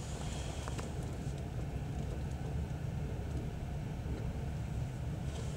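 Passenger train carriage rolling at low speed as it pulls out of a station, heard from inside: a steady low rumble of wheels on the rails, with a few faint clicks.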